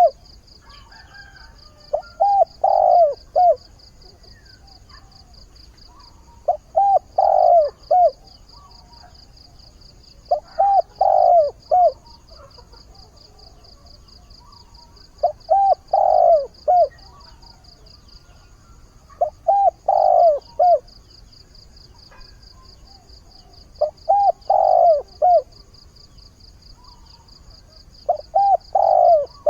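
Spotted dove cooing its call phrase seven times, about one every four seconds, each a quick run of coos ending in a longer note: the dove's mate-seeking call. A steady, high insect trill runs behind it.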